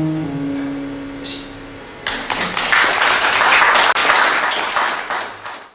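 The last acoustic guitar chord rings out and fades. About two seconds in, an audience bursts into applause, and the clapping stops abruptly when the recording cuts off near the end.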